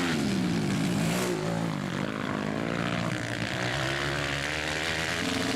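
Several 160cc racing motorcycles running at once. Their engine notes rise and fall as the riders accelerate and back off around the track.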